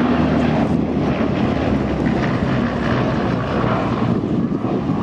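Bristol Blenheim's twin Bristol Mercury radial engines running steadily at power, a deep propeller drone that eases slightly near the end.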